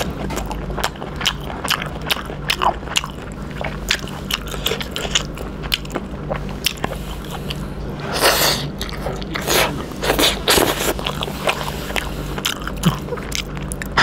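Close-up mouth sounds of a person eating fried chicken offal curry by hand: wet biting, chewing and lip-smacking, with many sharp clicks, and louder bites about eight and ten seconds in. A low steady hum runs underneath.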